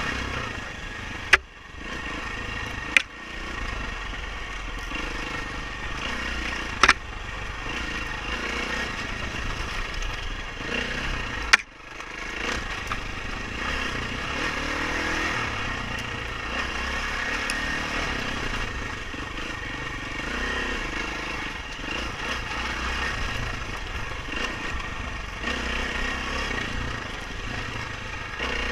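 Dirt bike engine running while riding a trail, its pitch shifting with the throttle, broken by four sharp knocks.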